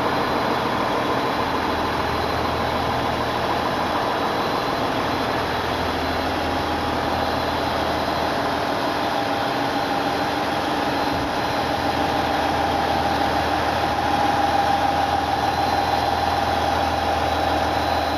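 Diesel engine of a new Limited Express Hida HC85-series hybrid train, running steadily while the train stands. The hum grows a little louder about fourteen seconds in.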